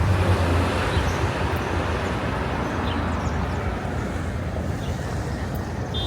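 Street traffic: a steady wash of road noise, with a passing vehicle's engine hum fading away as it begins.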